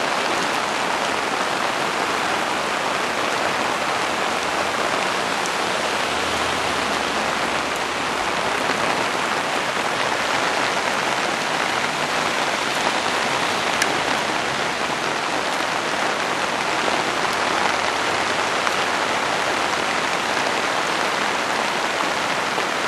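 Heavy typhoon rain pouring down steadily: a dense, even hiss that does not let up.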